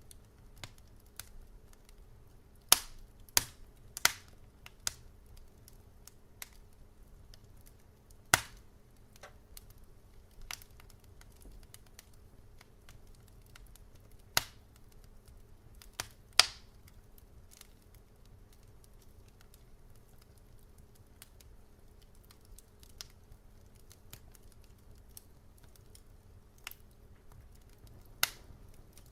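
Wood fire in a fireplace crackling: irregular sharp pops and snaps, a handful loud and the rest faint, over a low steady hum.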